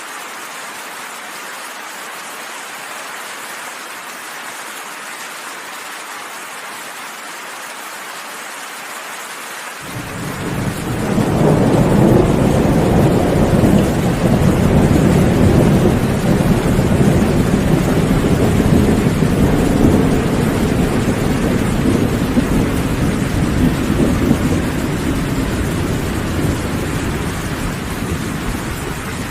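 Steady heavy rain, then about a third of the way in a long rolling thunder rumble builds quickly and slowly fades under the rain.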